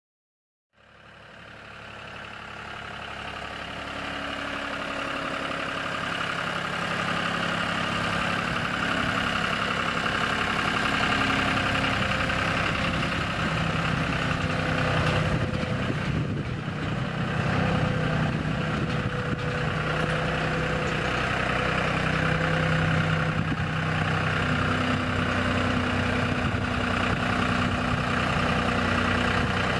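John Deere 5103 tractor's three-cylinder diesel engine running steadily at idle, fading in over the first few seconds.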